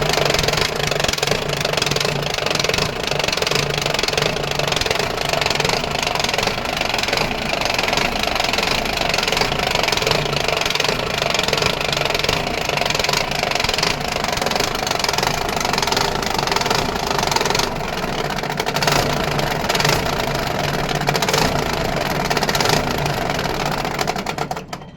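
A marine engine running steadily and loudly, with a repeated knocking through the run. It dies away near the end.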